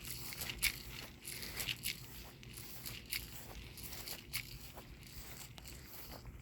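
Scattered raindrops ticking irregularly close to the microphone during a thunderstorm, over a faint low rumble.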